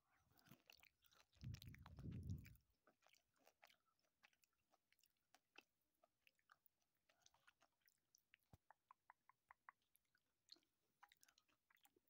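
Faint close-up chewing and small mouth clicks from someone eating candy, including a quick run of clicks, about five a second, past the middle. A muffled low rumble comes about a second and a half in.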